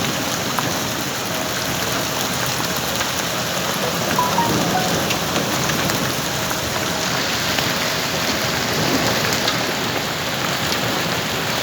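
Heavy rain falling: a dense, steady hiss of drops with many small sharp ticks of drops striking surfaces.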